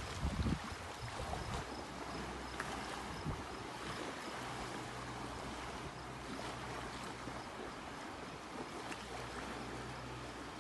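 Boat-wake waves washing and lapping against a lake shore, with a faint steady low hum of a boat engine underneath.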